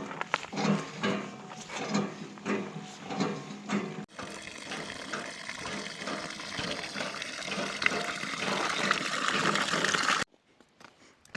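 Water being poured into a container, first in rhythmic glugs, then as a steady stream that rises in pitch as the vessel fills, cut off suddenly near the end.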